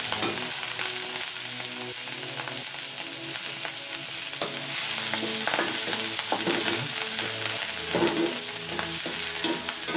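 Chili paste and onions sizzling in oil in a metal wok over a gas flame. A spatula scrapes and taps the pan over and over as the paste is stirred.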